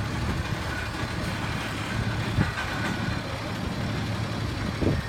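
Peterbilt truck's diesel engine running steadily, with a couple of short knocks about halfway through and near the end.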